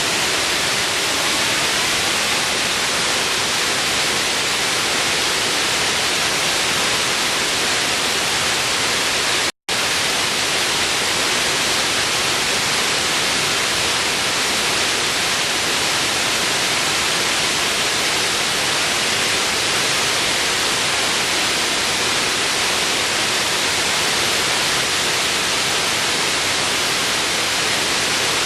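Waterfall: a steady, loud rush of falling water. The sound cuts out for an instant just under ten seconds in.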